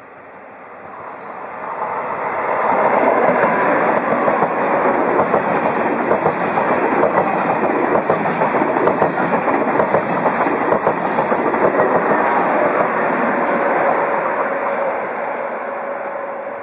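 TGV high-speed train passing at speed: a rushing rumble of wheels on rail that builds over the first two seconds, stays loud, then fades near the end.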